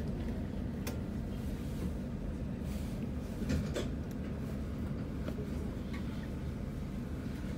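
Cabin sound inside an Alstom Citadis 302 tram: a steady low rumble and hum, with a few light clicks and knocks, one about a second in and a pair near the middle.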